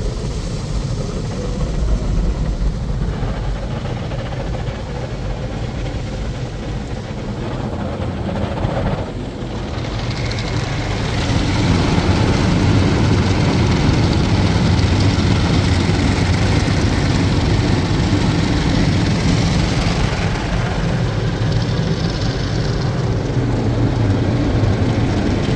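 WashTec SoftLine 2 tunnel car wash running: a steady low rumble of the machinery, then from about ten seconds in a louder, denser rush of water and spinning cloth brushes working over the car.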